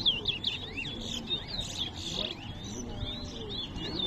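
Caged towa-towa finches singing competitively, a dense run of quick, high chirping notes and short whistled swoops repeated without pause.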